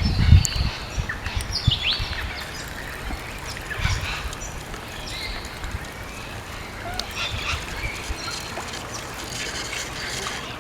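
Birds calling and chirping in short, scattered calls, with a few low knocks right at the start.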